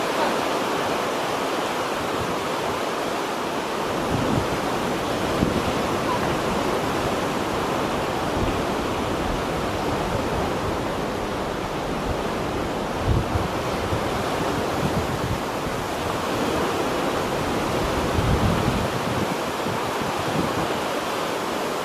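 Choppy sea waves washing in a steady wind, with gusts buffeting the microphone in low rumbles.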